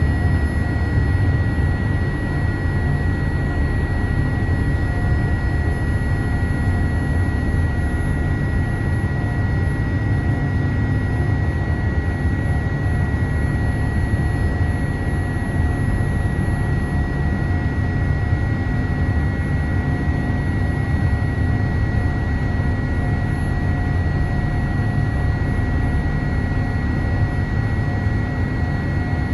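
Boeing 787-8 cabin noise from a front-row seat: a steady low rumble of jet engines and airflow, with a steady high-pitched whine running over it.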